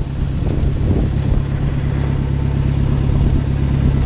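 Small farm tractor's engine running steadily, a loud, even low drone.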